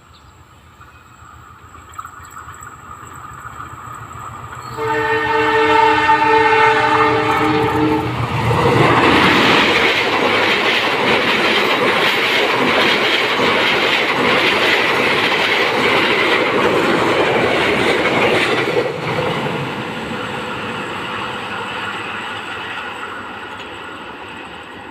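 A passenger train approaching on the main line sounds its horn for about three seconds. It then passes fast and close, with loud rushing and wheel noise for about ten seconds. The noise drops suddenly as the last car goes by, then fades as the train recedes.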